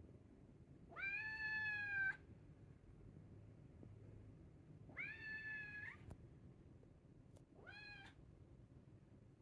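A cat meowing three times: a long meow about a second in, another about five seconds in, and a short one near the end.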